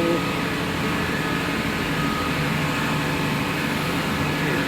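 Tug boat engine-room machinery running steadily: a constant drone with a few steady whining tones, no pauses or knocks.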